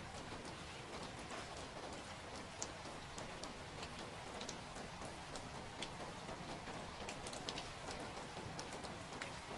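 Steady rain falling, an even hiss with many scattered drops tapping on a hard surface.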